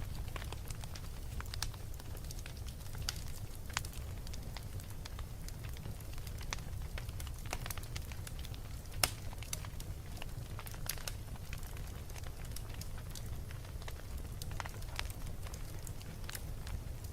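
Wood fire burning in a fireplace: a steady low rumble of the flames, with irregular sharp pops and crackles, the loudest about nine seconds in.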